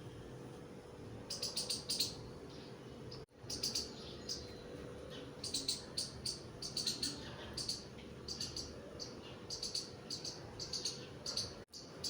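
Birds chirping in repeated quick runs of high notes over a steady low hum; the sound drops out briefly twice.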